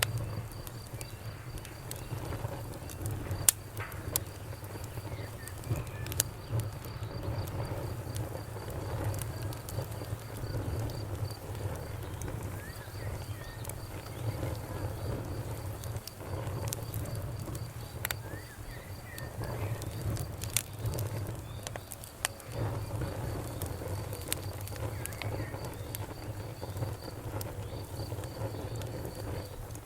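Wood fire crackling, with irregular sharp snaps and pops over a low steady rumble of the flames; the loudest pop comes about three and a half seconds in. A steady, rapid, high-pitched insect trill runs behind it.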